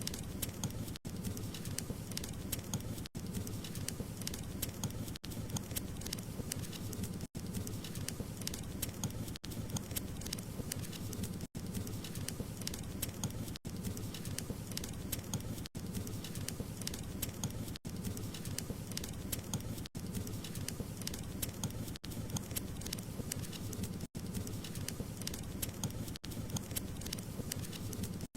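Wood fire crackling and popping steadily, a dense run of small sharp cracks over a low rumble of burning, broken by very brief gaps about every two seconds.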